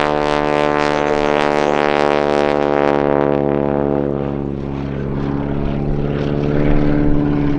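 Super Stearman biplane's 450-horsepower radial engine and propeller running steadily in a display pass. About three seconds in its sound turns duller as the higher part fades away.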